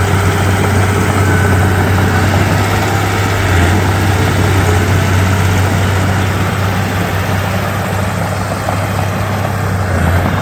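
Komatsu D31P crawler bulldozer's diesel engine running steadily with a deep, even hum.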